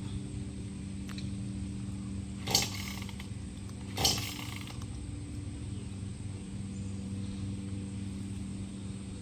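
Two pulls on a gas chainsaw's recoil starter cord, about 2.5 and 4 seconds in, each a short rasping zip, without the engine starting. A steady low hum runs underneath.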